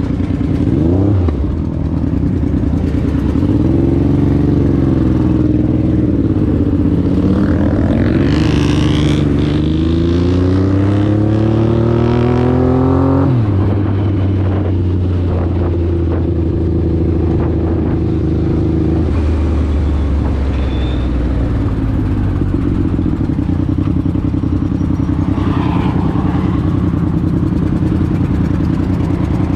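Motorcycle engine running, its pitch climbing steadily under revving for several seconds, then dropping suddenly about thirteen seconds in and settling into a steady run.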